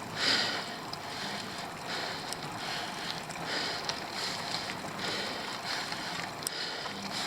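Bicycle climbing a steep uphill: a rhythmic hiss that swells about every two-thirds of a second, over steady riding and wind noise on the microphone.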